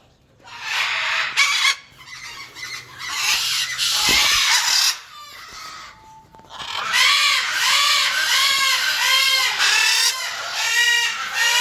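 Macaws squawking: harsh screeches in the first half, then from about seven seconds in a run of quick repeated arching calls, about two a second.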